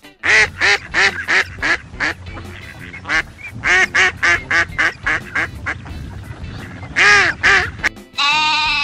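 A duck quacking in quick runs of short, loud quacks, several a second, with pauses between the runs. Near the end a longer, higher-pitched call begins.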